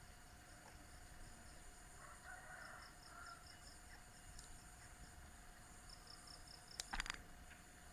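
Faint village outdoor ambience: a distant rooster crowing about two seconds in, runs of rapid high-pitched chirping, and a few sharp clicks near the end.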